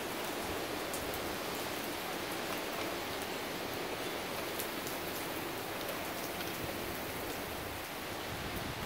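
Steady rain from a severe thunderstorm falling and splashing, with scattered sharp drop ticks.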